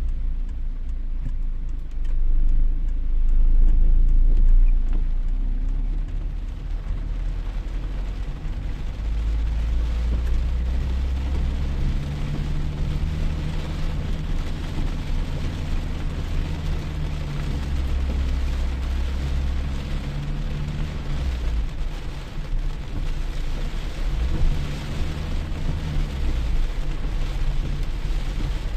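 Rain falling steadily, with a heavy low rumble underneath.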